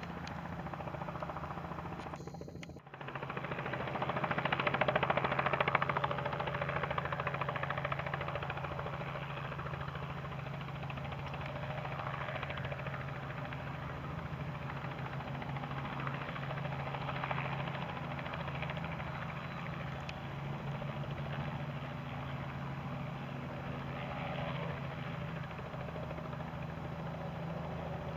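Robinson R44 helicopter running steadily, its engine hum under the rotor noise. It is loudest a few seconds in, after a brief break about three seconds in.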